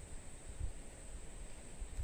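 Quiet outdoor ambience: uneven low wind rumble on the microphone with a steady high-pitched whine.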